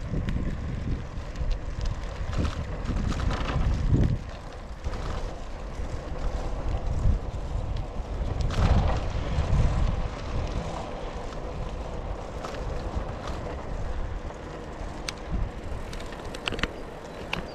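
Wind buffeting the microphone: a low rumbling noise that rises and falls in gusts, with a few faint clicks.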